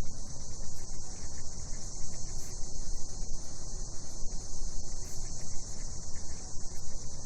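Cicadas singing in a steady, unbroken high-pitched chorus, with a low rumble underneath.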